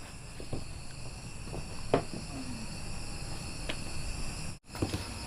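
A steady high chorus of insects such as crickets or cicadas, with a few sharp knocks scattered through it, the loudest about two seconds in. The sound cuts out for an instant shortly before the end.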